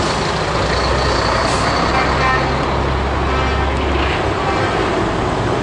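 Heavy truck diesel engines running steadily with a deep drone, one engine note dropping away about four seconds in.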